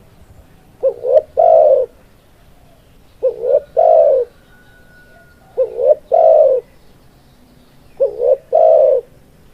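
Spotted dove (tekukur) cooing: four calls about two and a half seconds apart, each two short notes followed by a longer one. This is the bird's full, repeated song, the kind used to lure wild doves and to bring captive ones into song.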